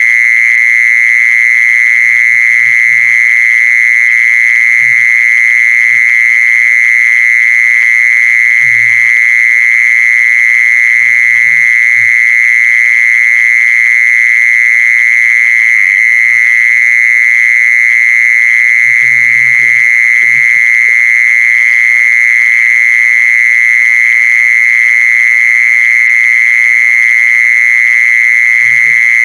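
Continuous, unbroken high-pitched insect call (the jeesorn insect, แมลงจีซอน), a steady buzzing tone with fainter overtones above it, with occasional faint low knocks underneath.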